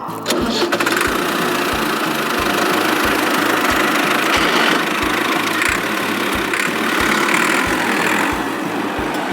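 Mini tractor's engine running steadily, with slow, even low thumps about two to three times a second under a steady rattling noise.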